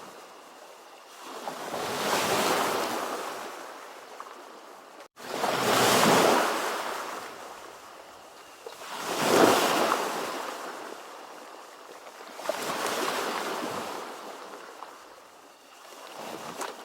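Ocean waves: surf rising and falling in five broad swells, each building and fading over about three to four seconds. About five seconds in, the sound cuts out for a split second.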